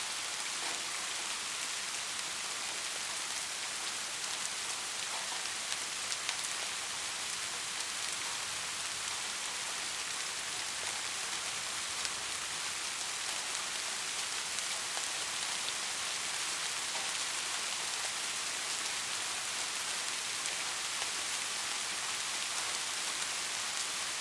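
Heavy rain falling steadily, an even hiss with a few sharper drop hits now and then; no thunder.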